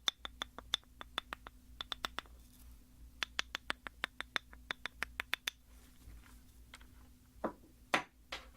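Teeth of a comb being plucked with a fingertip: runs of sharp clicks, about four or five a second, in three groups, then two louder knocks near the end.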